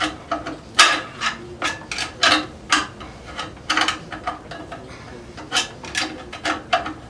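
Irregular metallic clicks and scrapes, roughly two a second, as the torque converter of a 2002 Ford Taurus transmission is turned to line its bolts up with the engine.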